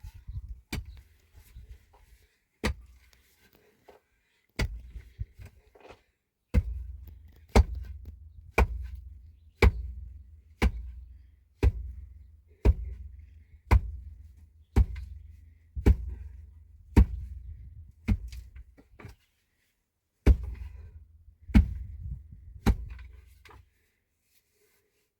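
Repeated heavy striking blows, each a sharp knock with a dull low thud. A few scattered strikes come first, then a steady run of about one blow a second, a short pause, and three more blows.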